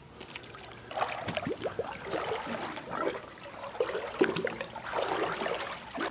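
Shallow creek water splashing and gurgling in irregular bursts.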